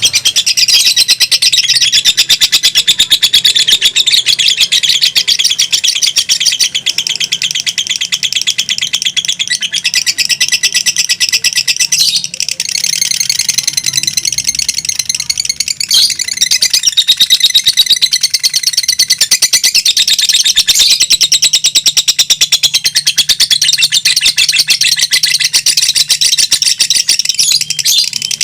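Lovebirds chattering in long, unbroken 'ngekek' song, a fast run of high-pitched chirps that hardly pauses.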